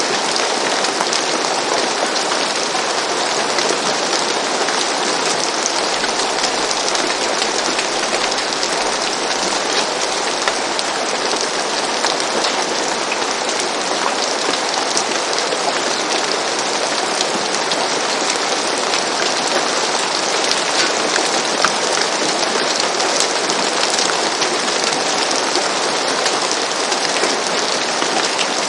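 Steady gentle rain falling on a roof: a dense, even hiss dotted with faint drop ticks, cutting in abruptly from silence.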